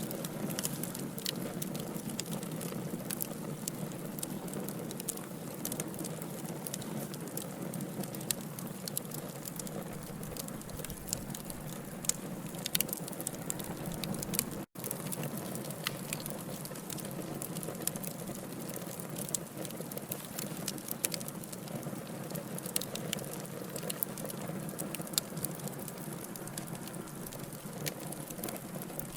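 Burning logs in a fireplace: a steady hiss with many sharp, irregular crackles and pops. The sound cuts out for an instant about halfway through.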